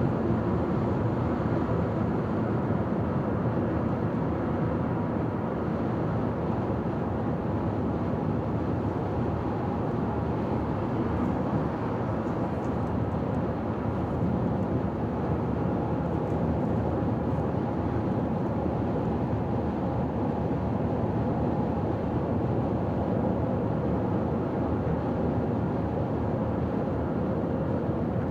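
Steady road noise of a car cruising on a highway: a constant rush of tyres and engine.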